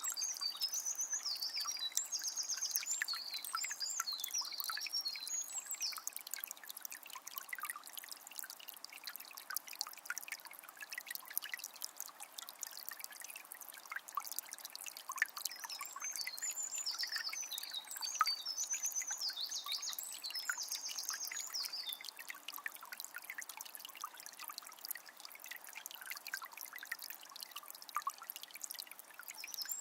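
Small spring water trickling and splashing, with many small plinks. A songbird sings in runs of high chirps through the first several seconds, again for several seconds past the middle, and once more at the very end.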